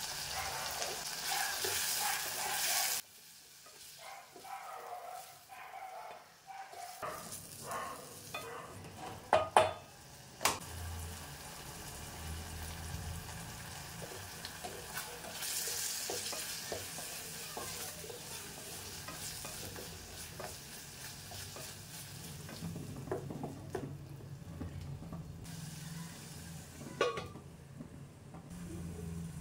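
Chopped tomatoes, shallots and green chillies sizzling as they sauté in a steel pot, with a spoon stirring and scraping against the metal. Two sharp clanks of the utensil on the pot come about nine to ten seconds in.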